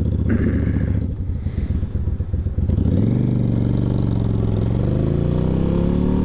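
Yamaha V-Star 1100 Classic's air-cooled V-twin running at low revs, then pulling away about three seconds in and accelerating, its engine note rising steadily.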